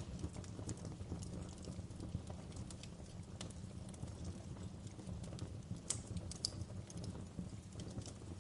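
Wood fire crackling in a fireplace: a steady low rumble of the flames with irregular sharp pops and snaps, a couple of louder pops about six seconds in.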